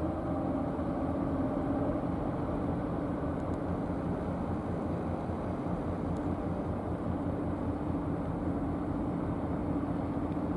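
High-speed car ferry's engines running, a steady low drone with a faint hum held on one pitch.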